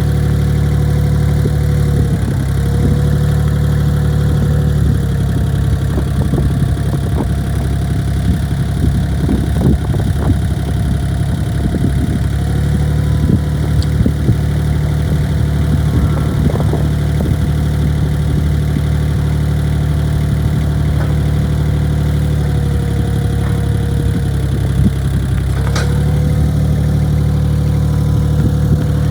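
1993 Gehl 3410 skid steer loader's engine running steadily. Its pitch sags briefly a few times as it takes load, and scattered clanks and knocks come through in the middle stretch.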